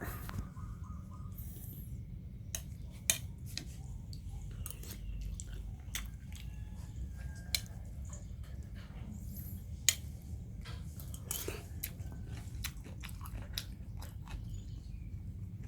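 Small puppies chewing and biting food, with irregular sharp crunches and clicks, over a steady low rumble.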